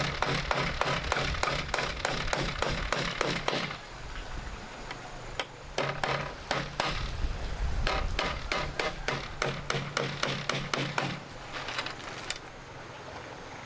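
Rapid runs of sharp knocking strikes, about four to five a second, pausing for about two seconds partway through and thinning out near the end.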